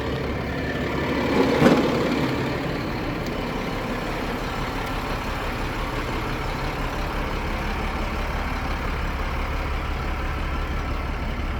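Caterpillar 3126B inline-six diesel of a Ford F750 truck idling steadily, with a brief louder clunk about a second and a half in.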